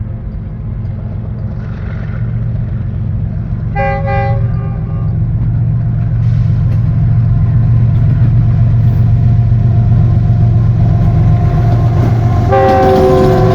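Locomotive of an approaching container train, its low rumble growing steadily louder. The horn sounds one short blast about four seconds in and starts a longer blast near the end.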